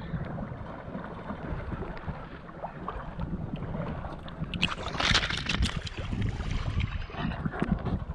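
Wind buffeting a GoPro microphone on open water, with water splashing and lapping. There is a louder burst of splashing about five seconds in.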